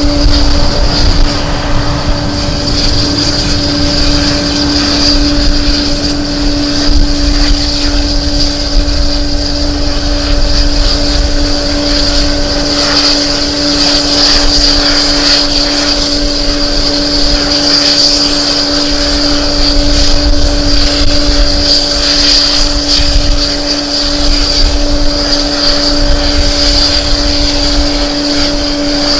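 Airliner engines running at a steady, unchanging pitch, a constant hum with a high whine above it, while gusty wind rumbles on the microphone.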